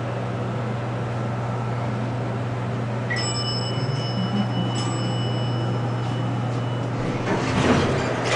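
Dover hydraulic elevator running with a steady low hum. About three seconds in, a bell-like chime rings for a few seconds, and near the end there is a louder rumbling stretch.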